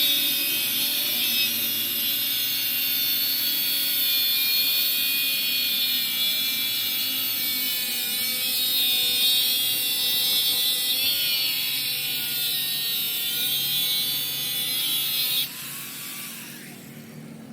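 Power tool working metal, running steadily with a high, hissing whine whose pitch wavers slightly under load, then cutting off abruptly near the end.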